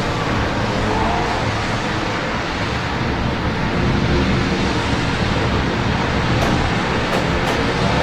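Steady rain over a city, with the continuous low rumble of road traffic beneath it.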